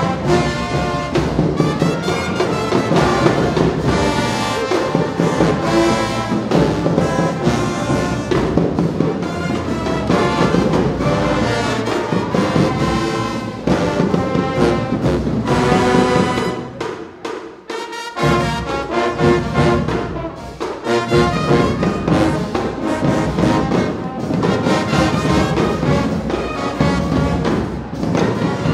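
High school marching band playing a loud brass tune, trombones and trumpets over drums. The band stops briefly about two-thirds of the way through, then comes back in.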